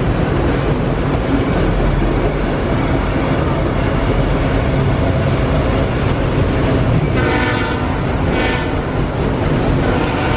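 Freight train of auto-rack cars rolling past, a steady loud rumble and rattle of wheels and cars. Two short tonal sounds cut through about seven and eight and a half seconds in.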